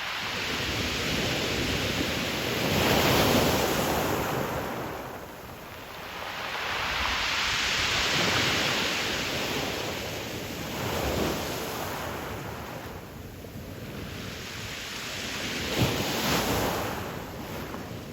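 Ocean surf breaking and washing up a pebble beach, swelling and easing every few seconds, with a short sharp crash about sixteen seconds in.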